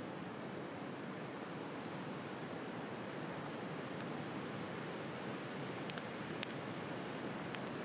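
Steady wash of sea surf with a wood fire crackling, giving a few sharp pops in the second half.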